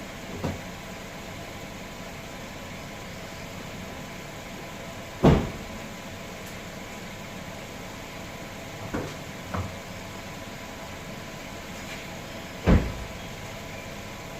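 Several dull thumps over a steady mechanical hum. The two loudest come about five seconds in and near the end, with two lighter knocks a little before the second.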